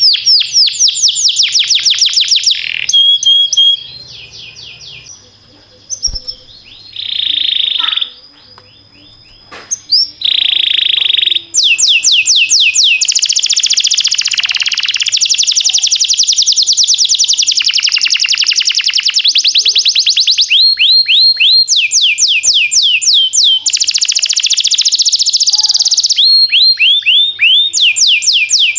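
Domestic canary singing: fast trills of rapidly repeated downward-sweeping whistled notes and dense high rolls. The song drops away to short, softer phrases for a few seconds early on, then returns loud and unbroken.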